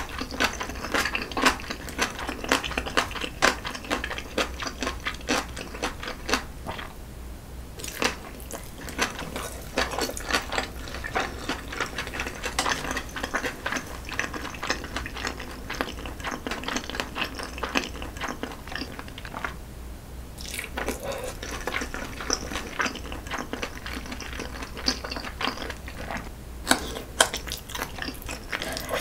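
Close-miked eating sounds: chewing and wet mouth clicks as a person eats shrimp shumai dumplings and spicy jjajangmyeon. There are brief pauses about seven and twenty seconds in, and a few sharper clicks near the end.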